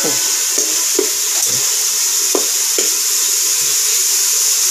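Pork sautéing with a steady sizzle in an aluminium pot, stirred by a long metal spoon that scrapes and taps against the pot now and then.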